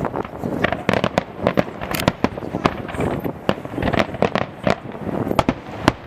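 Professional fireworks display: a rapid, irregular string of sharp bangs from bursting aerial shells, several each second, over a continuous crackle.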